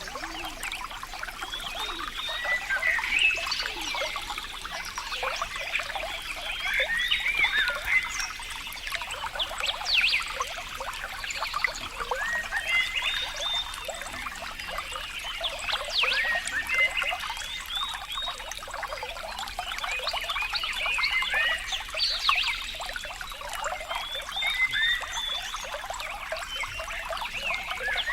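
Steadily trickling water with short, high chirping animal calls repeating throughout.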